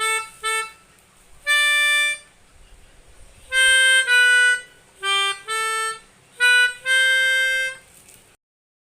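Pianika (melodica) playing a simple children's song melody in separate, detached notes, ending on a long held note; the audio then cuts off suddenly near the end.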